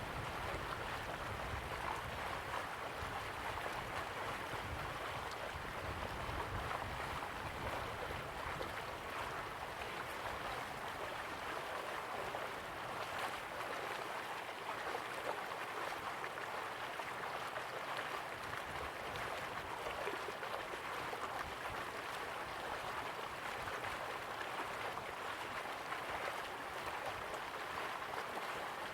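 Slow-flowing river water running steadily, an even rushing sound. A low rumble underneath fades out about halfway through.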